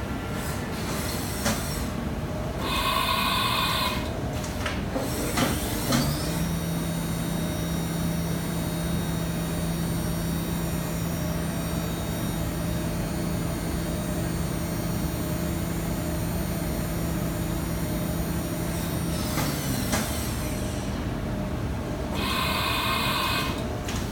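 Haas VM-3 vertical machining centre spindle spinning up, running at a steady speed with an even hum for about thirteen seconds, then spinning down. Clicks come before and after the run, and short buzzing bursts sound about three seconds in and again near the end.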